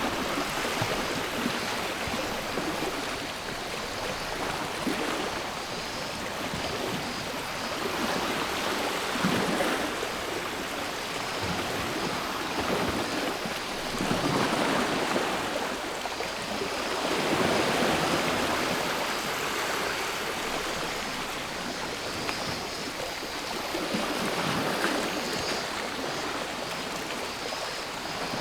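Sea waves washing in, the rush of water swelling and falling every few seconds. A faint, steady buzz of cicadas sits high above it.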